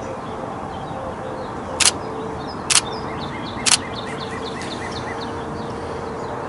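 Three sharp clicks about a second apart: a Canon 90D DSLR's shutter firing single shots. A small bird chirps a quick series of short notes, with a faint steady tone underneath.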